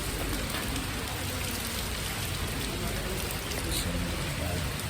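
Rain falling steadily, an even hiss of rain on the ground and surrounding surfaces.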